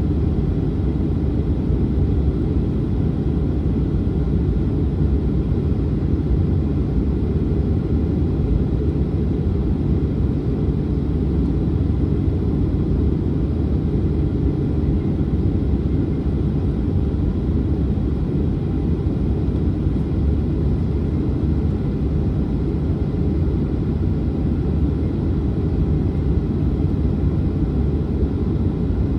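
Boeing 737-900's CFM56-7B jet engines running with a steady low rumble and faint steady whine above it, holding an even level throughout.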